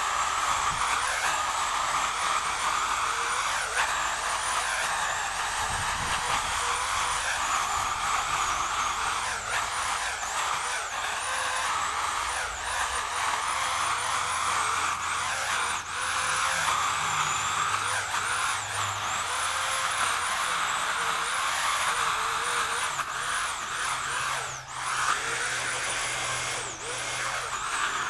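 Chainsaw running and cutting, its motor pitch dipping briefly again and again as the chain loads up in the wood.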